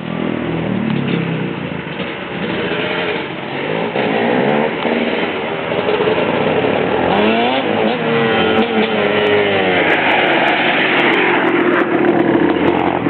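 Dirt bike engines revving, with the pitch climbing and dropping again and again as the throttle is opened and closed.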